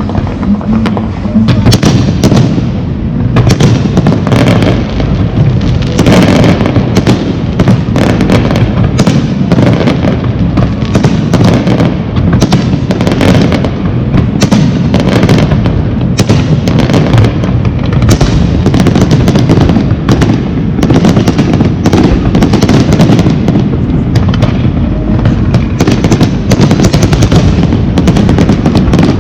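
Fireworks display with a dense, continuous barrage of bangs and crackling shells bursting in quick succession, very loud throughout.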